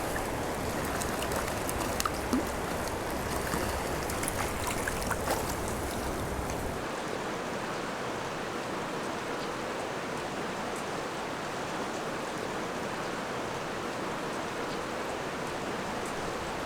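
Steady rush of a trout stream's current flowing through a canyon run, with a few faint clicks in the first several seconds. About a third of the way in, the sound becomes thinner in the bass and treble.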